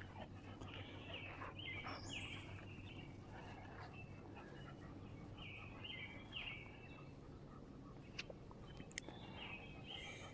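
A songbird singing faint, short phrases of quick falling notes, repeated every few seconds over a low steady outdoor hum. A couple of sharp clicks come near the end.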